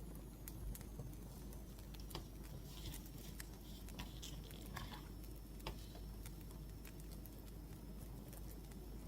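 Firewood crackling softly, with irregular sharp pops and clicks over a steady low rumble.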